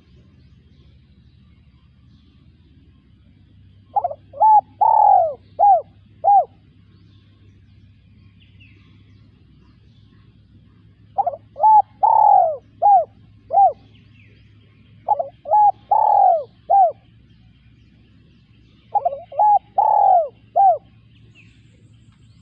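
Spotted dove cooing: four song phrases spaced a few seconds apart, each a run of about five short coos with one longer, drawn-out coo in the middle.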